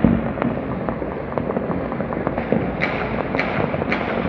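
Fireworks going off, many at once: a dense, continuous crackle of bangs, with a loud bang at the start and sharper cracks about twice a second in the last second and a half.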